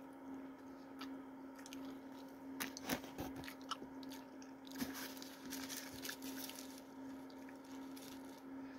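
Faint, wet chewing of a mouthful of Big Mac, with scattered soft mouth clicks and smacks, and sauce being licked off the fingers. A steady low hum runs underneath.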